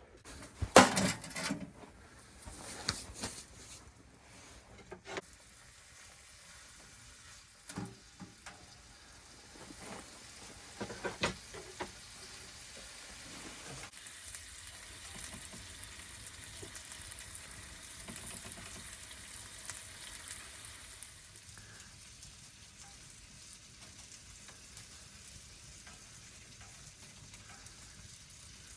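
Chopped steak pieces frying in butter in a pan, a steady sizzle, put back to cook their still-raw middles. A few short knocks and clatters from the pan or utensil come in the first dozen seconds.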